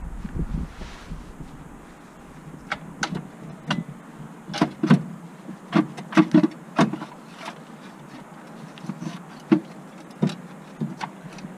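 A series of irregular short clicks and knocks, about one or two a second, as of tools and parts being handled during work on a car.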